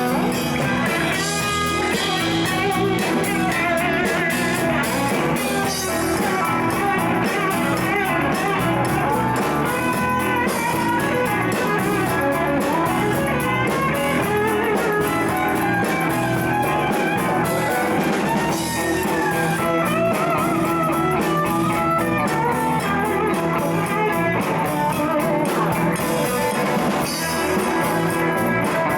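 Band playing a jam, with guitar to the fore over bass and a steady beat.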